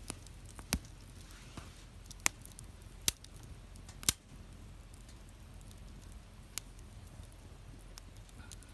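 Wood fire crackling in a fire pit: a low steady hiss broken by sharp, irregular pops, about six of them, the loudest in the first four seconds.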